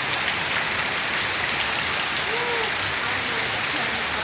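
Heavy rain falling in a steady, dense hiss. About halfway through, a faint short call rises and falls.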